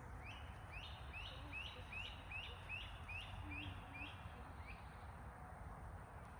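A bird singing a run of about ten short, rising notes, a little over two a second, that stops about three-quarters of the way through.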